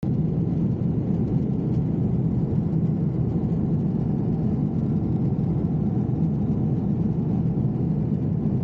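Steady drone of a jet airliner's cabin in flight: the engine and airflow noise holds level without rising or falling.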